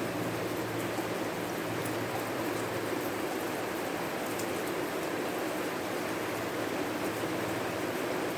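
Heavy, torrential rain falling as a steady, even hiss.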